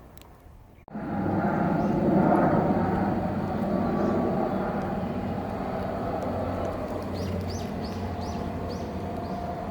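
Steady rumble of a passing vehicle, starting abruptly about a second in and slowly easing off. Short high chirps of birds come in the last few seconds.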